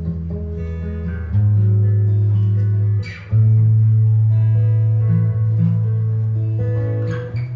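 Improvised jazz guitar playing, with long-held low bass notes under single melody notes. A brief scraping noise comes about three seconds in and again near the end.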